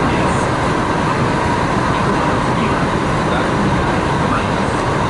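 Kintetsu Nara Line rapid express train running, heard from inside the carriage: a steady rumble with a faint steady whine.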